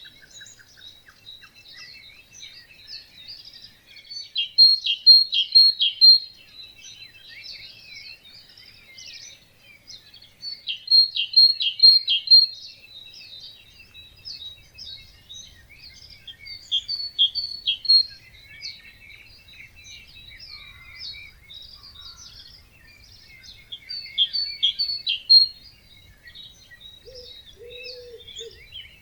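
Dawn chorus of many songbirds at a wetland, with one nearby bird repeating a loud song phrase of quick, high chirps about every six seconds, four times. A short low call comes in near the end.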